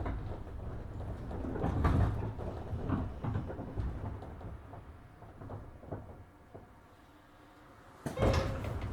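103 series 1500 electric train's low running rumble dying away as it stands at a station, with a few knocks, then about eight seconds in a sudden loud clatter and rush as the sliding passenger doors move.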